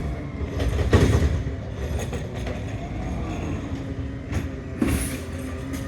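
Autocar ACX garbage truck running close by, a steady low rumble with a couple of short noisy bursts, about a second in and again near the end.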